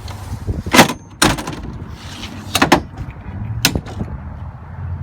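A series of sharp clunks and clicks from the hardware of a Ford F-150 pickup being worked by hand, over a low steady rumble.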